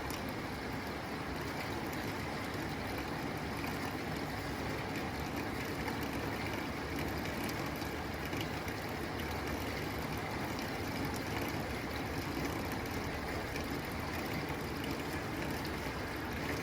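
Steady rain falling on a tin roof: an even, unbroken hiss with a few sharper drop ticks scattered through it.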